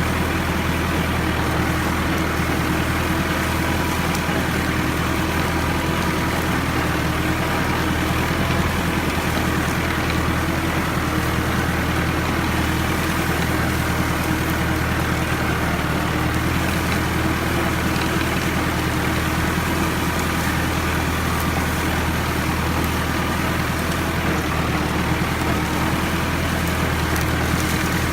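Ford farm tractor's engine running steadily, pulling a three-disc plow through heavy clay.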